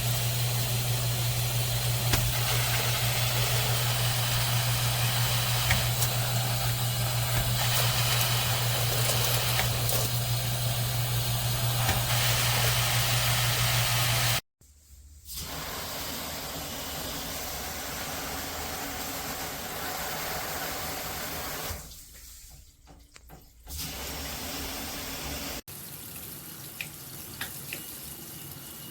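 Water rushing from a handheld shower head, with a steady low hum under it for the first half. The flow then cuts abruptly to a quieter rush, which drops away briefly and returns.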